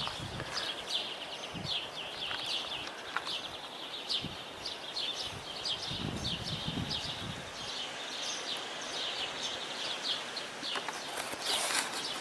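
Many small birds chirping, short quick calls overlapping several times a second, over a steady hiss of wind on the microphone.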